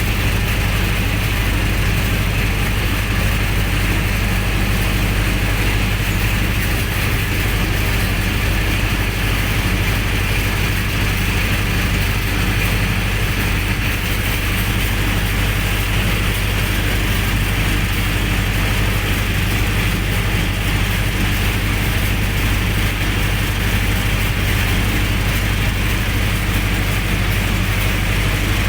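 Generator set engine running steadily at a constant speed, a loud, even drone with a strong low hum.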